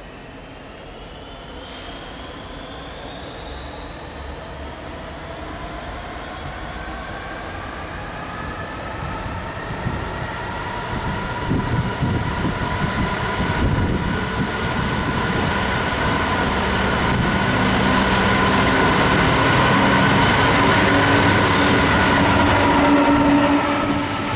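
A train accelerating and drawing closer, getting steadily louder, its motor and gear whine rising in pitch and levelling off near the end over the rumble of the wheels on the rails.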